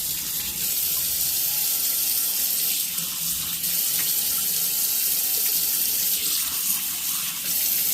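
Water running steadily from a faucet into a sink, an even hiss.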